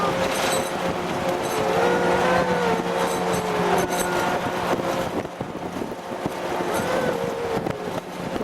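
Military convoy vehicle running: loud, steady engine and road noise with a constant low hum and some wavering tones over it.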